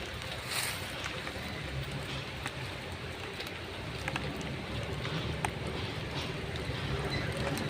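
Diesel truck engine running with a steady low rumble, under an even hiss and a few light ticks.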